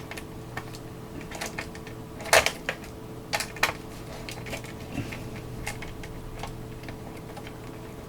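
Irregular small clicks, taps and knocks of hard plastic and metal parts being handled during disassembly of a cassette multitrack recorder, with the sharpest knocks a couple of seconds in, over a faint steady electrical hum.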